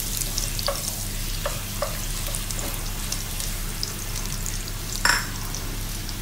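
Garlic sizzling in hot cooking oil as it is sautéed, with a wooden spoon clicking against the pan a few times. A single sharp knock sounds about five seconds in.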